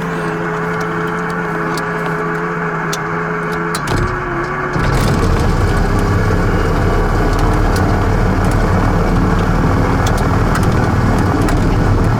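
Piston engines of a Cessna 340A, turbocharged Continental TSIO-520s, running steadily. About four to five seconds in, the sound changes and becomes louder and fuller, then holds steady.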